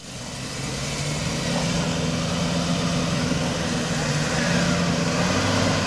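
Off-road 4x4 engine running steadily at one low pitch under a wash of noise, growing a little louder over the first second or two.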